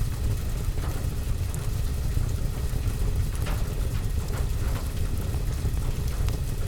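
Rain drumming on a roof and window heard from inside, as a steady low rumble, mixed with the occasional crackle and pop of a wood fire in a fireplace.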